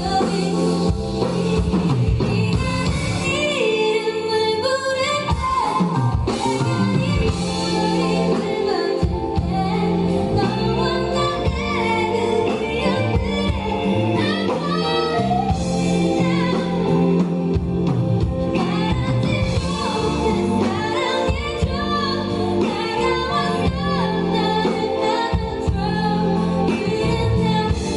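A live band performance of a pop song, with a lead vocalist singing over the instruments.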